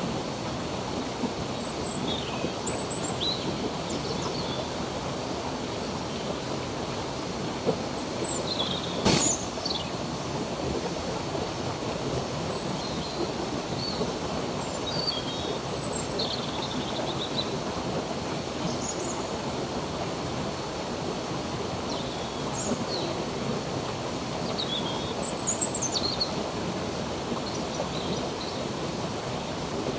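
Steady rush of flowing stream water, with short bird chirps scattered throughout and one sharp click about nine seconds in.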